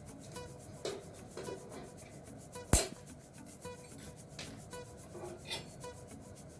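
Light rubbing and handling noises with faint ticks, and one sharp click a little under three seconds in.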